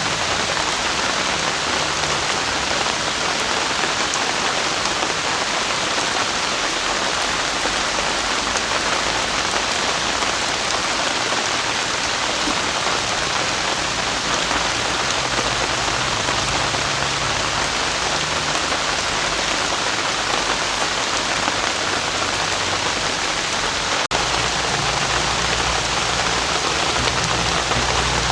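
Heavy rain pouring down steadily, a dense even hiss, with a momentary break about 24 seconds in.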